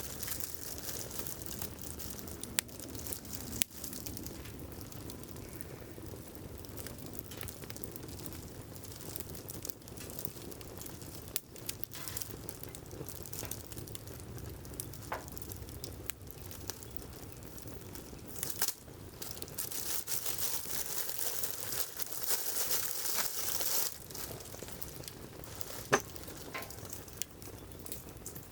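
Firewood burning in a campfire grill, crackling and hissing with many scattered sharp pops, a few of them louder.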